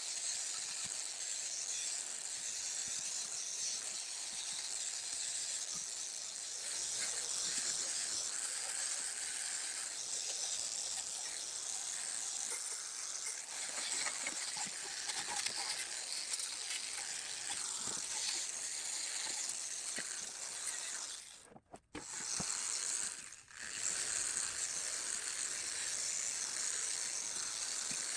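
A steady hissing, scrubbing noise, broken by two brief pauses about three-quarters of the way through.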